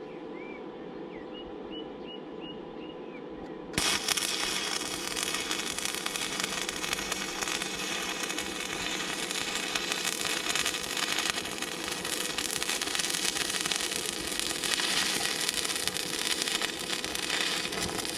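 Arc welder striking an arc about four seconds in and then running a steady crackling, sizzling weld for about fifteen seconds, welding steel flat bar onto a mini digger's thumb. Before the arc strikes there is a steady hum and a few short chirps.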